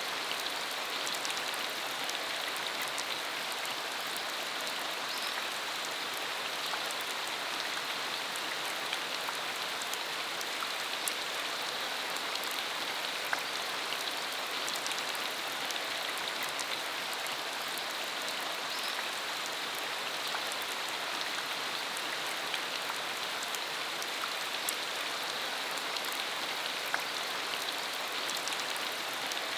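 Steady rain falling, with many small drop ticks scattered through a constant hiss.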